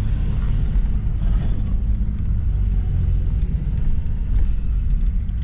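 Truck running and rolling slowly, a steady low engine and road rumble.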